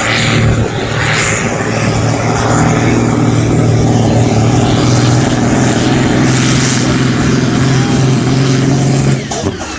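A 1,000-horsepower turbocharged pulling tractor engine running loud and steady at high revs under load during a pull, then dropping off suddenly about nine seconds in as the run is cut short. The commentator puts the failure down to clutch issues, a clutch with no bite.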